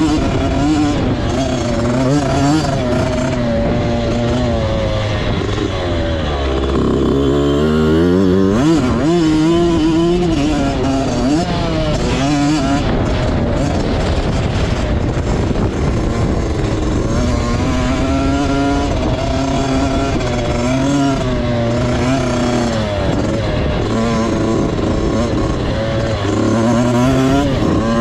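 Motocross bike engine being ridden hard, its revs rising and falling repeatedly as it accelerates and shifts, over steady wind noise; the revs drop low about six seconds in, then climb sharply again.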